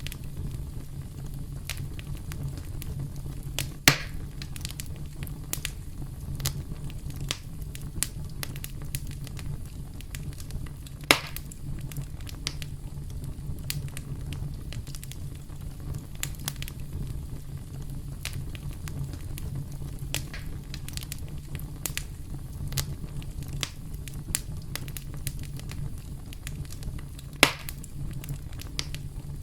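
Campfire crackling steadily over a low rumble of flames, with frequent small snaps and three louder pops at about four, eleven and twenty-seven seconds in.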